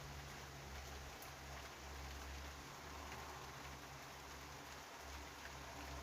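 Light rain falling, a faint steady hiss, with a low hum underneath.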